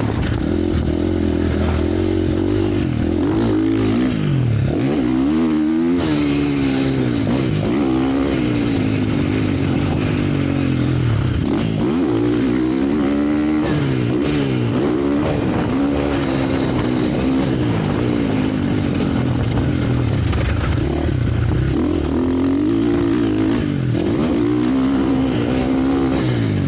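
Motocross motorcycle engines revving, the pitch climbing and dropping again and again as the throttle is opened and shut.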